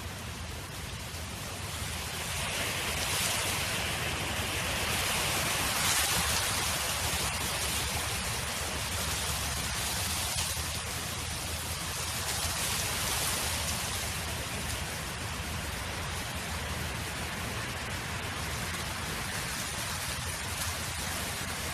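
Wind blowing across an open field as a steady rushing noise, swelling in gusts about two seconds in and again around ten seconds.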